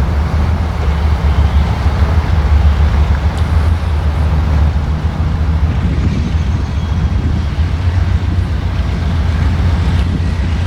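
A train rolling past close by: a steady low rumble.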